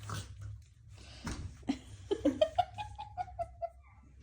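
Schnauzer puppy whining: a run of short high yips about two seconds in that draws out into one longer, slightly falling whine. A soft knock about a second in.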